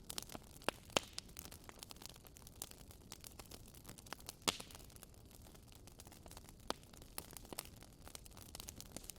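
Wood fire burning in a fireplace: irregular crackles and pops over a low steady hiss, with a louder pop about a second in and another about four and a half seconds in.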